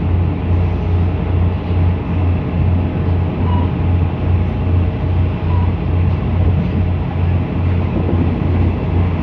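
Passenger train running, heard from inside the coach: steady running noise with a low throb that pulses about twice a second.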